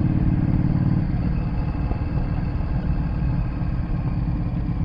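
Car engine running with road noise while driving, heard from inside the car: a steady low engine hum that is strongest in the first second, then rougher.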